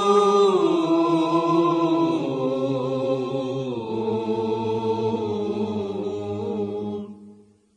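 Wordless sung vocals in a nasheed's closing phrase: long held notes that shift slowly in pitch over a low drone, fading out about seven seconds in.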